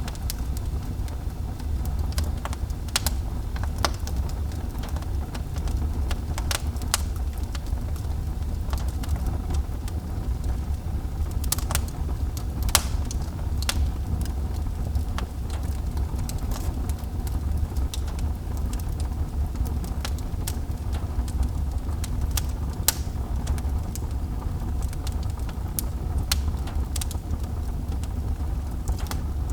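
Wood fire burning in a fireplace: scattered sharp crackles and pops, about one or two a second, over a steady low rumble of the flames.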